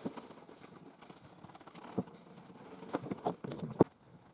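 A few scattered light knocks and clicks, sparse at first and closer together near the end, the loudest a sharp tap just before the end.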